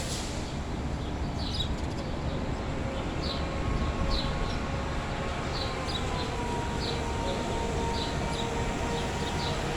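Small birds chirping with short, high calls, scattered at first and more frequent in the second half, over a steady low rumble and a faint steady droning tone.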